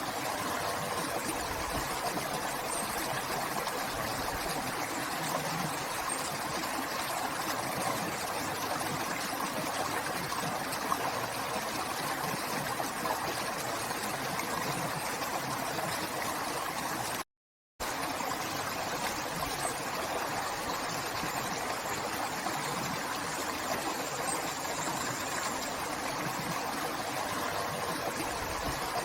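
River water flowing in a steady, even rush. It cuts out completely for about half a second a little past halfway through.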